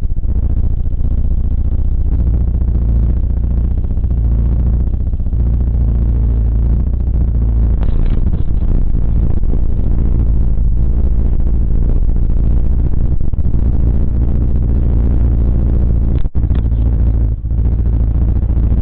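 Steady low rumble of a car driving, road and engine noise heard through a dashcam, broken by two very short dropouts near the end.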